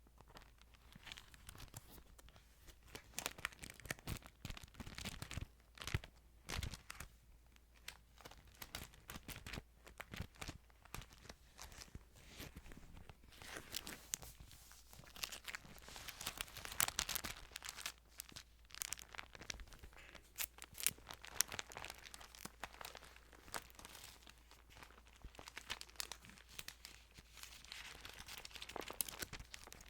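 Thin Bible paper being handled close to the microphone: pages crinkling and rustling in a continuous run of small crackles and clicks, busier about halfway through and again near the end.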